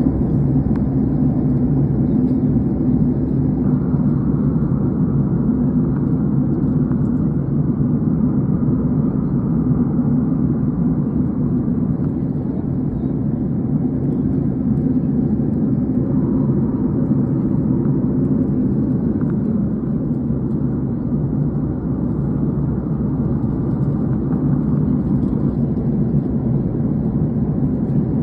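Aeroplane in flight heard from inside the cabin: a steady low drone of engines and rushing air.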